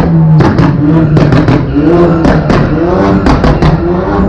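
Car engines revving hard over a steady engine drone, the pitch sweeping up and back down again and again, with many sharp cracks scattered throughout.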